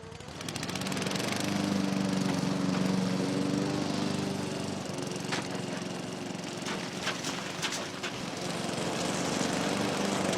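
An engine running steadily, with a few sharp cracks or snaps partway through.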